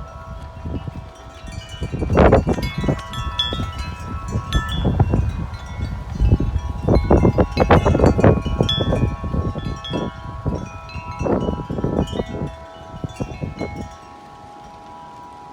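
Wind chime struck over and over by strong gusts, several tubes ringing at once in overlapping sustained tones, with wind buffeting the microphone. Near the end the gust eases and the chime rings on more softly.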